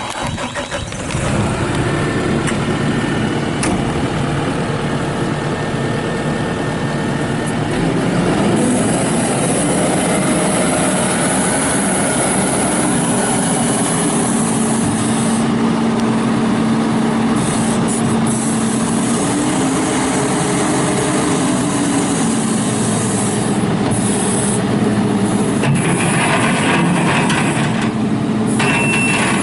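Kubota SVL95-2S rubber-track skid steer's four-cylinder diesel engine being started about a second in, then running steadily, getting louder about eight seconds in. A backup alarm starts beeping right at the end.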